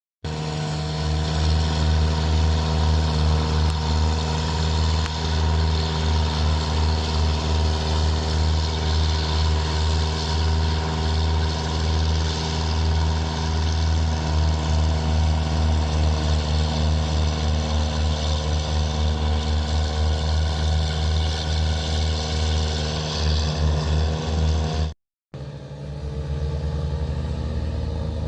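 Massey Ferguson MF390 Turbo tractor's turbocharged four-cylinder diesel running steadily through a twin exhaust, a deep even rumble. It drops out for a moment near the end and comes back quieter.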